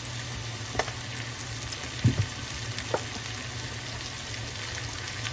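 Sliced bell peppers and onions frying in a pan, with a steady sizzle. A few light knocks sound over it, the loudest about two seconds in.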